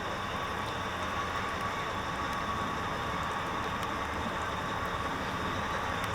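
Railway locomotive running steadily in heavy rain, with a constant hum and no distinct events.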